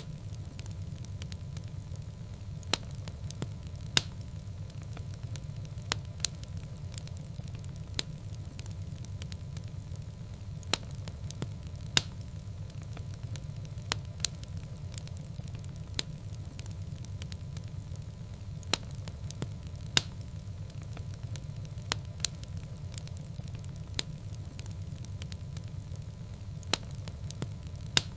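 Fireplace fire burning: a steady low rumble of flames with sharp crackling pops every second or two.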